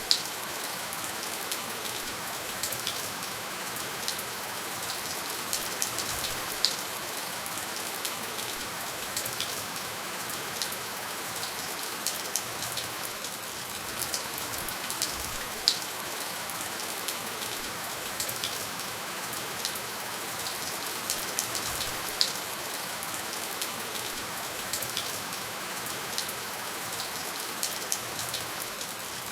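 Steady, gentle rainfall with no thunder: an even hiss of rain with the sharper ticks of individual drops landing close by.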